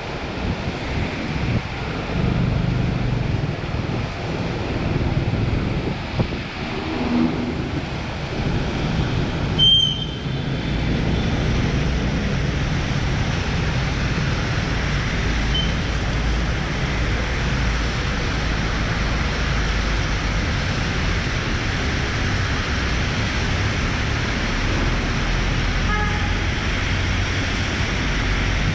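Riding in traffic: a vehicle engine running steadily under continuous wind and road noise, with one short knock about ten seconds in.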